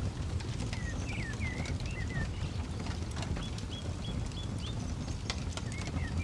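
Wood campfire crackling, with sharp pops scattered through a low steady rumble. Small birds chirp over it in short wavering notes, with a quick run of short rising chirps midway.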